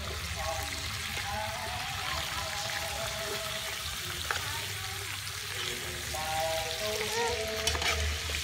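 A whole chicken sizzles in a pot of bubbling Coca-Cola braising sauce over a wood fire. A metal knife is turning it, and it clicks sharply against the pot twice.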